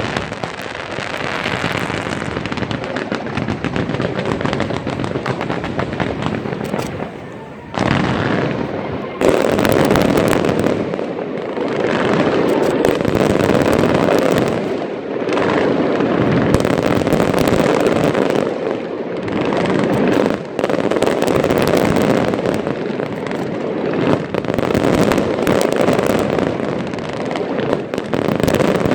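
Fireworks display: a continuous barrage of bangs and crackles from many shells. There is a brief lull about seven seconds in, and the barrage grows louder and denser from about nine seconds on.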